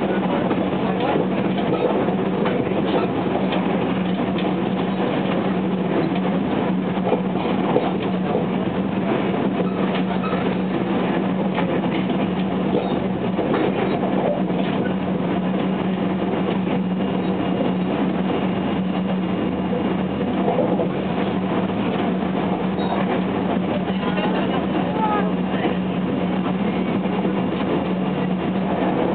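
Running sound of a JR West 287 series electric express train heard from inside the passenger car at speed: a steady rumble of wheels on rail with a constant low hum and faint ticks from the track.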